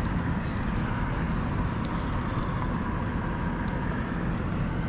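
Steady low rumble of wind and water noise on an outdoor microphone, with a faint steady whine underneath.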